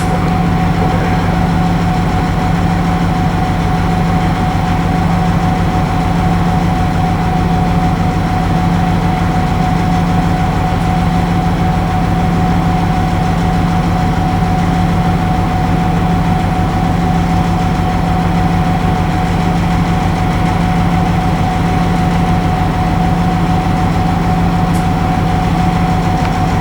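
Railway locomotive standing and running steadily: a constant low drone with a fine pulse, and a steady higher whine over it.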